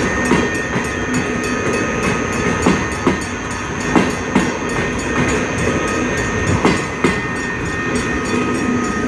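Passenger train coaches rolling slowly out of the station. Their wheels knock over the rail joints in uneven pairs every second or so, over a steady rumble and a few thin, steady high tones.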